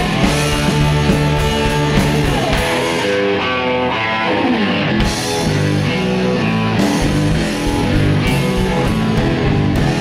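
Live rock band playing an instrumental passage with electric guitar, bass, lap steel and drums. The drums drop out about three seconds in, with falling sliding notes over them, and come back in about two seconds later.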